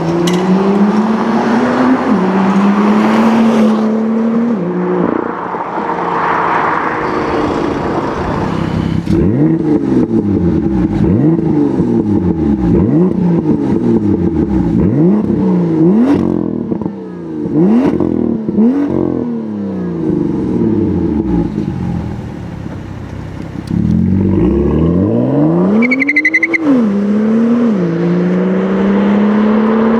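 BMW M2's turbocharged straight-six through a straight-piped Guerrilla bypass exhaust, loud: it pulls up through the revs and drops at gear changes near the start and again in the last few seconds, with a long run of quick revs rising and falling in between.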